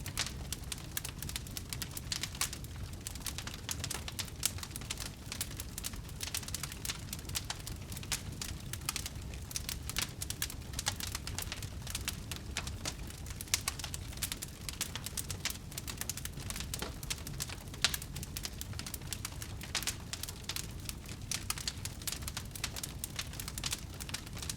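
Wood fire crackling: a dense, irregular stream of sharp pops and snaps over a low steady rumble, with a few louder pops now and then.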